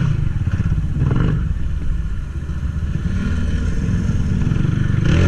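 Honda CG 160 Titan's single-cylinder four-stroke engine running steadily as the motorcycle is ridden along.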